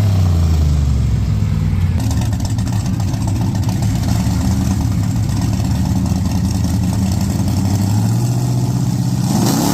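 Mud truck engine easing off, its pitch dropping in the first second, running steadily, then revving up again near the end.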